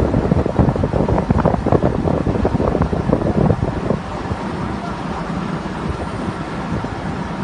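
Truck-mounted rotary table water well drilling rig running with a steady low drone. Dense clattering and knocking for about the first four seconds, then it settles to a steadier drone.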